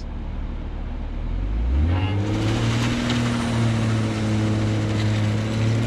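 Toyota Supra's turbocharged inline-six idling, then revved up about two seconds in and held at a steady high pitch against the brakes in a burnout attempt. The rear tyres don't break loose; the car just pushes forward on locked front wheels.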